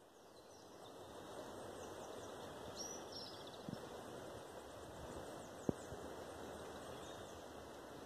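Birds calling with faint, high, repeated chirps and a short trill about three seconds in, over a steady outdoor background hiss. Two small clicks, a little under four and a little under six seconds in.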